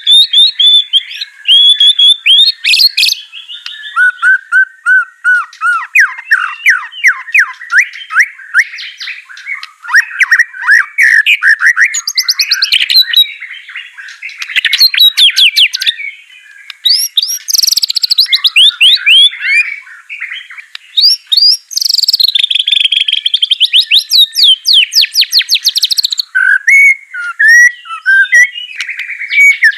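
White-rumped shama singing a long, varied song of rapid trills, clear whistles and sweeping notes, phrase after phrase with only short gaps.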